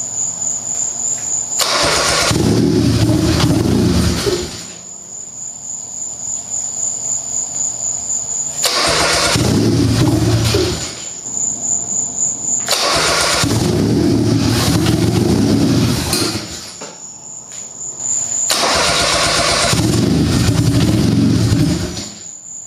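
Freshly built, turbocharged Mitsubishi 3A92 inline three-cylinder engine on its first start, loud. It catches four times, each time running for two or three seconds before stalling. All cylinders are firing, and the start-and-stall is put down to fueling not yet tuned on the new ECU. Crickets chirp steadily in the gaps.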